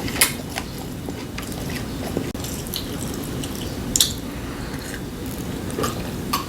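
Eating sounds: chewing and biting, with a handful of sharp clicks scattered through.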